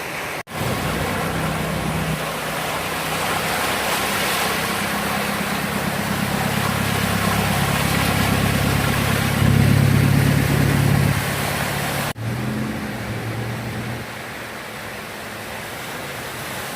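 A vehicle engine running under a steady rushing noise. It grows louder toward about ten seconds in. The sound is cut off abruptly twice, about half a second in and about twelve seconds in.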